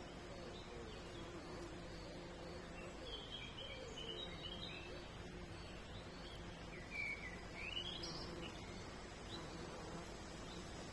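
Small birds chirping outdoors: a run of short high chirps in the middle and a quick rising call near the loudest moment, over a steady low hum.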